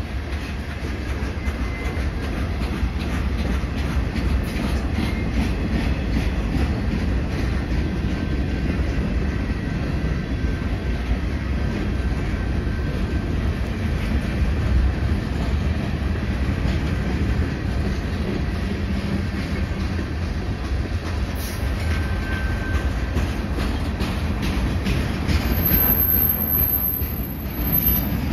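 Freight train of tank cars, boxcars and flatcars rolling past: a steady rumble of steel wheels on rail with a running clickety-clack of wheels over the rail joints.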